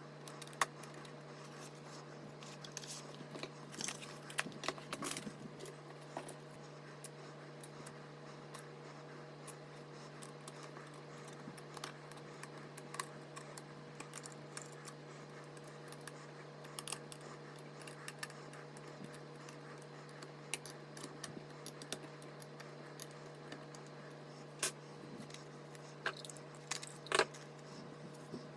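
Scattered small clicks, taps and scrapes of computer hardware and packaging being handled during a PC build, a few of them sharper than the rest, over a steady low electrical hum.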